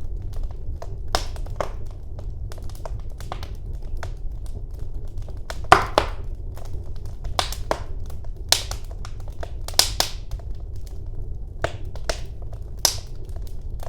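Wood fire burning in a fireplace, crackling and popping at irregular intervals over a steady low rumble of the flames, with a louder pop about six seconds in.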